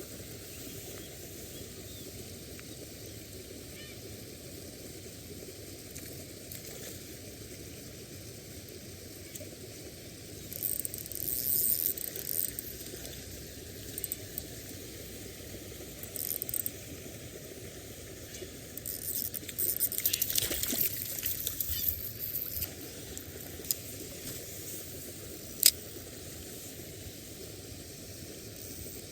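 Steady outdoor water ambience, broken by several bursts of splashing, about ten seconds in, again around sixteen seconds and longest from about nineteen to twenty-two seconds: a hooked trout thrashing at the surface during the fight and landing. A single sharp click comes near the end.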